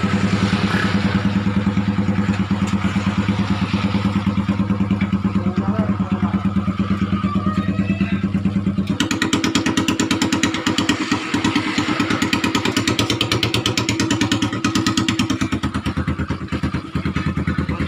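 Motorcycle engine running through a shop-made muffler with an even pulsing exhaust beat. About halfway through, the revs jump to a higher steady speed, and they drop back near the end.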